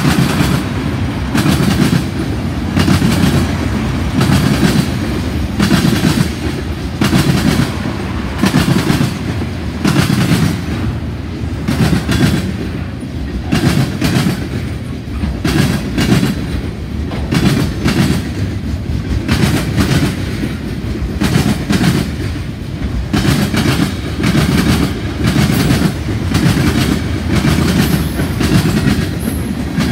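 A freight train's mixed cars (tank cars, a centrebeam flat, a covered hopper, a gondola) rolling past at speed. Steel wheels clack over the track again and again above a steady heavy rumble.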